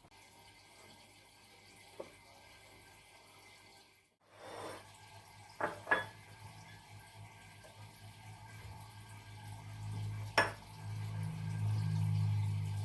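Kitchen sounds: running and dripping water with a few sharp clinks of dishes or glass, and a low hum that grows louder near the end.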